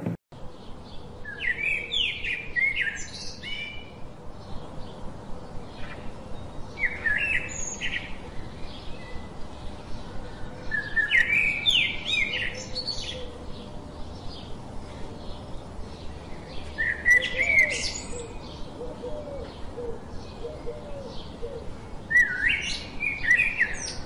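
A songbird singing short phrases of quick rising and falling notes, one about every five seconds, over a faint steady outdoor background.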